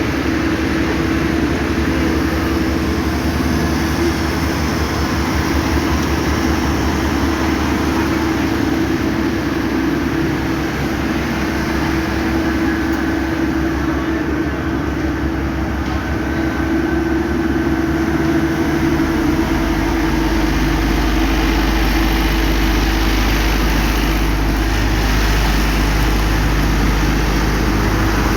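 Diesel engines of heavy road-paving machinery running steadily, with a deeper low rumble growing stronger about two-thirds of the way through.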